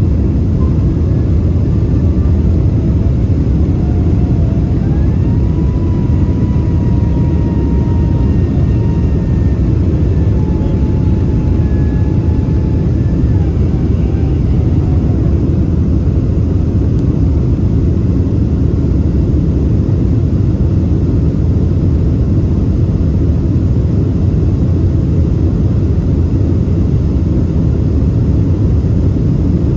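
Boeing 767-300ER jet airliner making a steady, loud, low rumble, with faint whining tones that slide in pitch during the first half.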